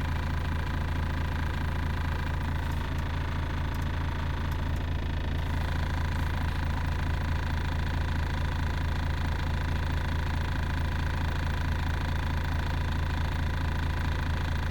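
Volvo FH truck's diesel engine idling steadily, a constant low hum with a slight change in its higher tones about five seconds in.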